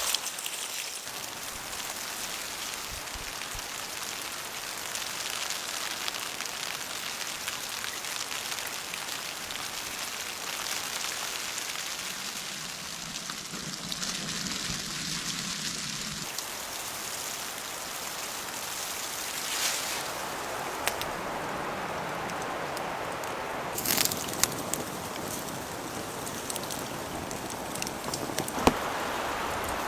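Steady rain falling, an even hiss of drops, with a few sharp knocks now and then and a brief low hum in the middle.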